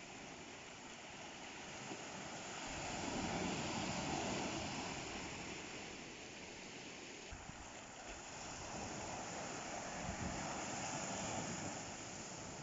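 Ocean waves on a shore: a steady wash of surf that swells twice, once about three seconds in and again around ten seconds in.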